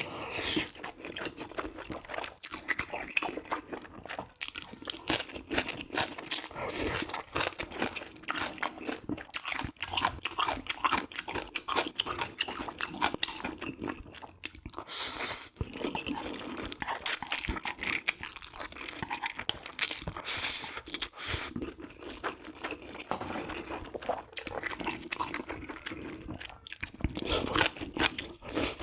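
Close-miked eating: a person crunching through bites and chewing, heard as a continuous run of crisp crackles and clicks.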